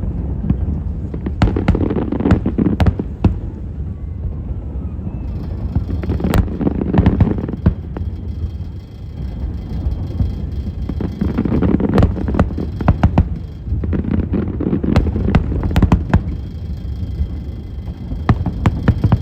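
Fireworks display: aerial shells bursting in quick clusters of sharp bangs, over a continuous low rumble.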